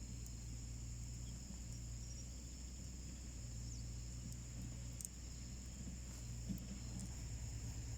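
Insects trilling steadily in a high, unbroken chorus, with a few sharp crackles from a wood fire burning in a small homemade wood stove, the clearest about five seconds in.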